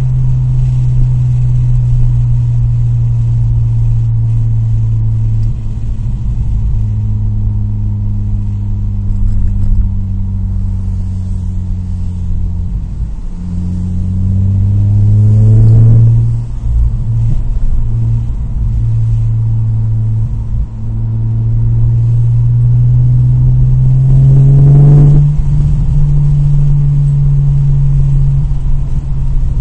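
2002 Nissan Maxima's 3.5-litre VQ35DE V6 running loudly and steadily. The revs climb twice, about halfway through and again near the end, and drop sharply after each climb.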